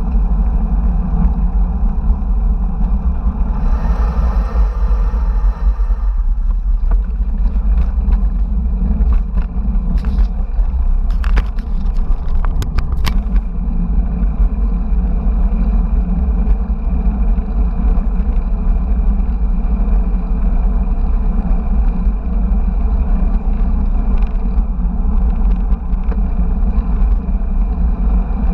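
Steady low rumble of wind and road noise on an action camera riding along with a bicycle. A brief brighter hiss comes about four to six seconds in, and a few sharp clicks about ten to thirteen seconds in.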